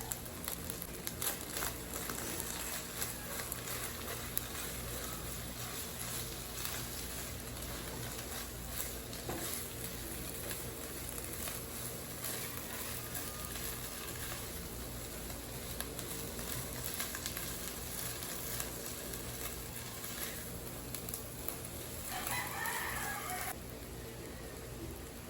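Steady hiss of food sizzling in a pan, with scattered small clicks. A short animal call of about a second and a half comes in near the end.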